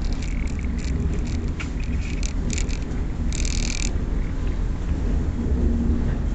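Ride noise inside a moving Class 411 CEP electric multiple unit coach: a steady low rumble from the running gear, with scattered rattles and clicks from the carriage, and a brief harsher rattling burst about three and a half seconds in.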